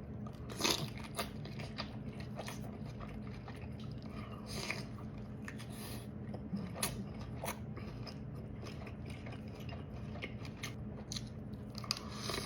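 Close-miked biting and chewing of lobster tail, with scattered sharp wet clicks and crunches, the loudest about half a second in, over a steady low hum.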